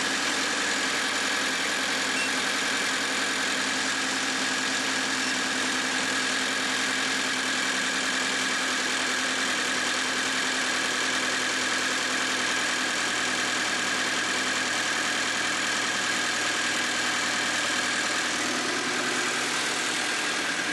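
Car engine running at a steady fast idle just after a cold start, heard under the open hood.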